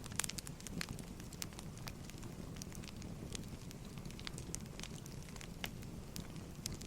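Wood fire burning with a steady low rumble and frequent irregular crackles and pops of burning firewood.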